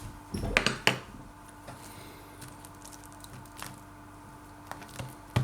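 Smashed avocado being put onto and worked over toast with a utensil: soft squishy scraping, with a couple of sharp knocks about half a second in and another near the end.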